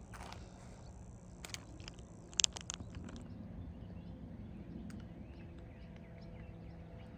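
Outdoor ambience with a low steady rumble. A few scattered sharp crunches or clicks come in the first three seconds, the loudest about halfway through that stretch, then faint bird chirps.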